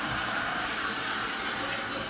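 Robot vacuum cleaner running with a steady whirring noise.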